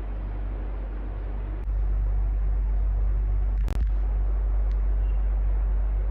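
Electric fan running steadily: an even whooshing noise over a low hum. It gets louder a little under two seconds in, and there is one sharp click a little past halfway.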